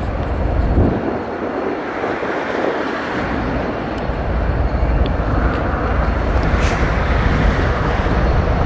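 Freight train rolling past, a steady roar with heavy low rumble that grows stronger about three seconds in.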